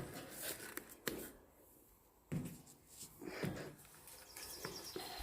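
Faint scuffs and knocks, a few seconds apart, from a person climbing over a field gate.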